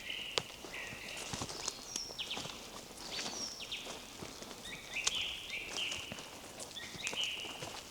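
Small songbirds singing in the woods, many short high notes in quick runs, over the footsteps of someone walking along a forest path.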